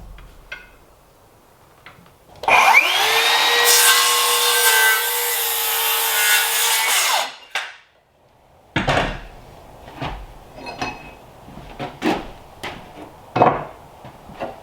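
An electric power saw starts and cuts wood. Its motor whine rises quickly and holds steady for about five seconds, then stops. After a short pause come a series of knocks and clatters as wood is handled.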